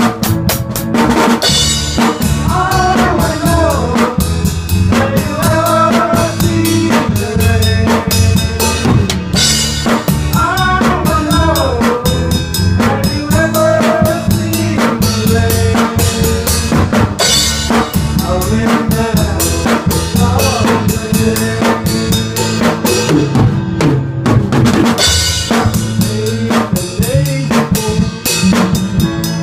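Small band playing live: a drum kit keeping a steady beat with kick and snare, under a low bass part and a melody line that bends in pitch.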